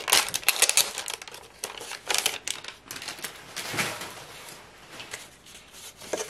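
Packaging wrapping being torn open at its tear strip and crumpled by hand: a dense run of crackling in the first couple of seconds, then quieter rustling with a soft thud about four seconds in.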